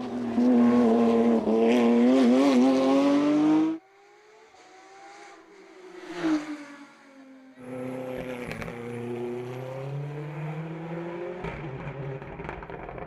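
Hill-climb race car engine at high revs, loud with its pitch wavering through the throttle, cutting off abruptly about four seconds in. Then a quieter race car engine is heard further off, its pitch sweeping past once and then falling and rising again as it drives on.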